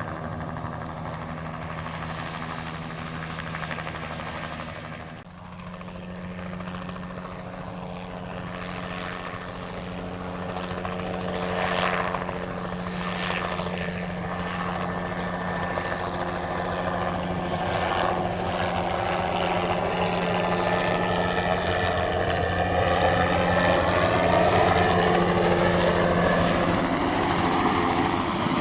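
A light single-turbine helicopter flying, with a steady rotor and turbine sound. The sound changes abruptly about five seconds in, then grows louder through the second half as the helicopter comes closer.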